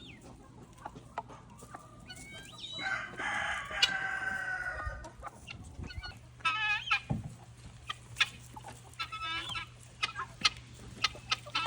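Chickens clucking in short calls, with a rooster crowing once for about two seconds, starting about three seconds in. Short clicks are scattered between the calls.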